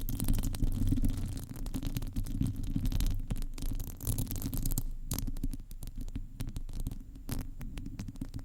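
Microphone being scratched directly for ASMR: a continuous low rumbling rustle, with many fine crackling clicks throughout.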